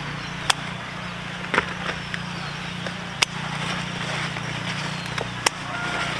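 Four sharp clicks or snaps, irregularly spaced a second or two apart, over a steady background hiss and low hum.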